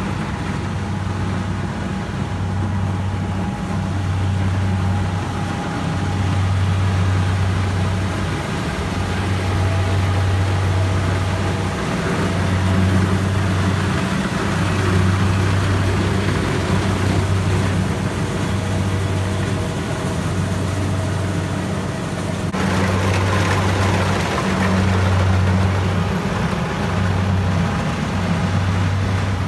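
Rice combine harvester working through the crop: a steady engine drone with a low hum that swells and dips every second or two, and a mechanical whine above it. The sound changes abruptly about three-quarters of the way through.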